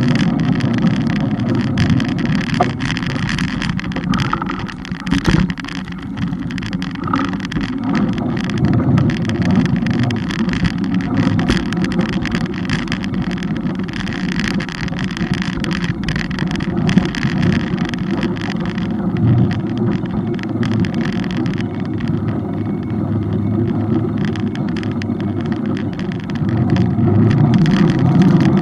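Road noise and wind rushing over the camera's microphone on a moving bike, a steady low rumble with constant rattling clicks.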